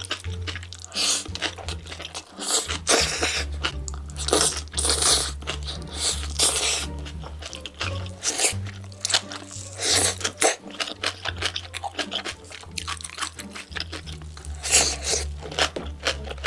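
Close-miked eating sounds: crunching and chewing in quick irregular bites, over background music with a steady bass line.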